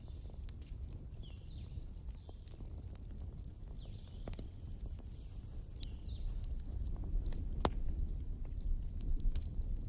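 Wood fire burning: a low steady rumble with scattered sharp crackles and pops, a few louder pops in the second half.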